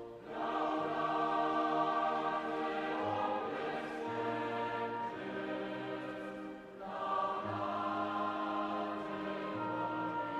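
Choir singing slow sustained chords with instrumental accompaniment, in phrases that pause briefly near the start and about seven seconds in.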